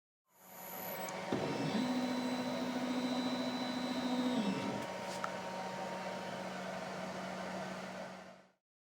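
CNC router running, a steady motor hum under a hiss. About a second and a half in a higher motor tone rises, holds, and falls away near five seconds, as the machine makes a move.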